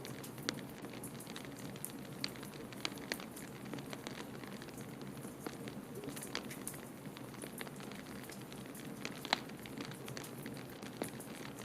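Wood fire crackling in a fireplace: frequent irregular pops and snaps, one sharper pop about nine seconds in, over a steady low rushing noise.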